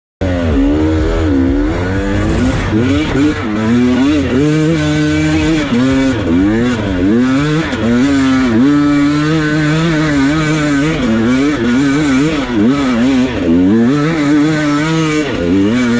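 Dirt bike engines revving, the pitch rising and falling again and again with the throttle; the sound starts abruptly.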